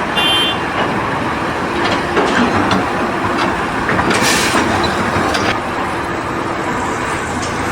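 Loud, continuous rumbling and rattling of heavy machinery or a large vehicle, with a brief high squeal near the start.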